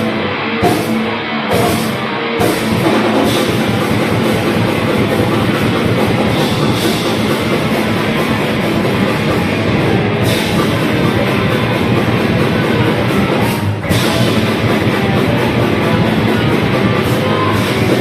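Live grindcore band playing, with distorted guitars and drums. A few separate crashes come in the first two seconds before the full band plays continuously, with a brief break about fourteen seconds in.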